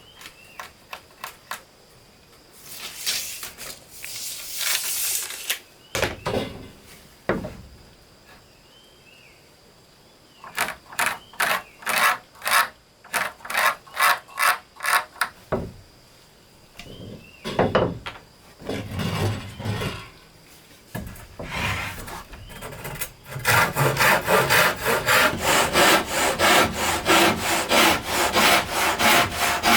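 Hand saw cutting wood in rhythmic back-and-forth strokes: short runs of strokes about two a second, then steady, quicker sawing from about three-quarters of the way in.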